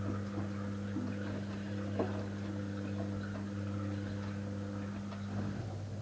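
Electrolux washing machine running: a steady motor hum with scattered light clicks and ticks, one sharper click about two seconds in.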